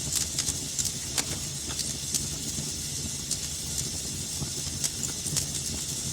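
Wood fire crackling in a fireplace: irregular sharp pops and snaps, several a second, over a steady low rumble and hiss of the flames.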